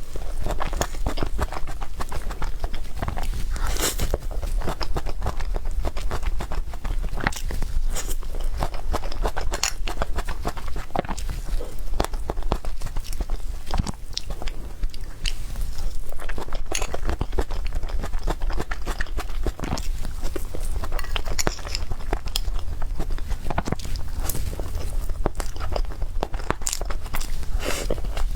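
Close-miked chewing and biting of cake, a dense run of wet clicks and small crunches, with a steady low hum underneath.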